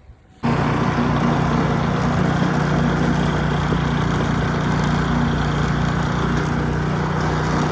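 A small engine running steadily at constant speed, cutting in suddenly about half a second in.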